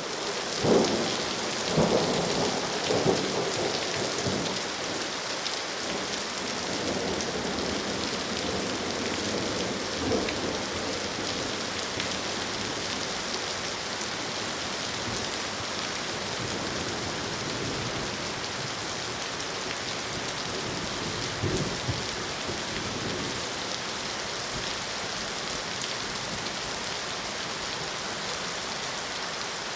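Steady rain falling, with rolls of thunder rumbling during the first few seconds and once more about two-thirds of the way through.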